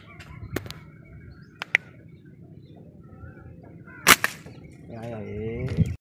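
Small birds chirping in the background, with a few sharp clicks and one loud sharp crack about four seconds in, followed closely by a second, weaker one. Near the end a wavering pitched vocal sound rises and falls, then everything cuts off abruptly.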